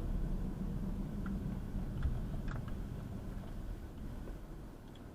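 Low vehicle engine rumble fading away, with a couple of faint clicks about two seconds in.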